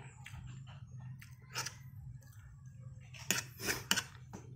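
Chewing with wet mouth noises, and a metal spoon scraping and clicking on a plate while scooping rice; the loudest scrapes come a little past three seconds in. A steady low hum runs underneath.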